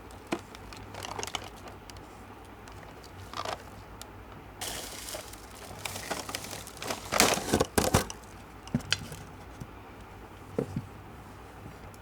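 Candy wrappers crinkling and tearing as they are handled and opened, with scattered light taps and clicks. The loudest burst of rustling and tearing comes about seven to eight seconds in.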